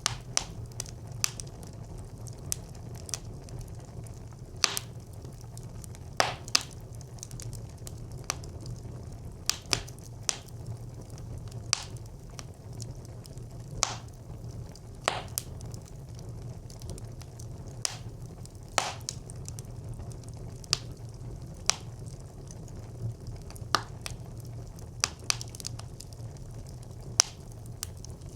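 Wood fire burning in a brick clay stove: irregular sharp crackles and pops, a few a second and some much louder, over a steady low rumble of the flames.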